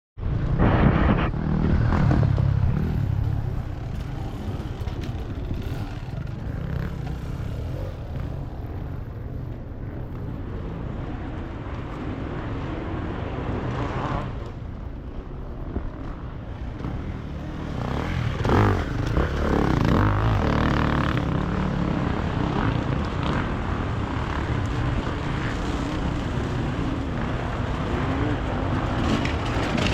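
Enduro motorcycle engine running under varying throttle, rising and falling as it is ridden, loudest a second or two in and again about two-thirds of the way through.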